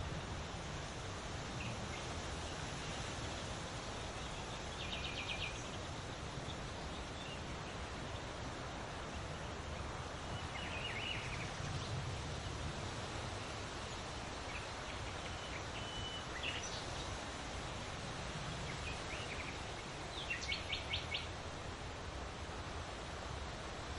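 Songbirds calling now and then over a steady outdoor hiss and low rumble: short high chirps and quick trills, the liveliest run of rapid notes near the end.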